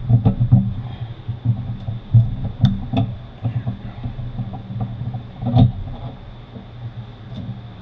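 Irregular knocks, thumps and metal clinks of manual-transmission parts being worked and handled on the bench, freeing a tight-fitting part. The sharpest clinks come about two and a half, three and five and a half seconds in, and the knocking thins out near the end.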